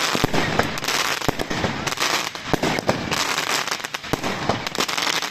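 Fireworks going off in rapid succession: many sharp bangs and crackles over a continuous crackling hiss.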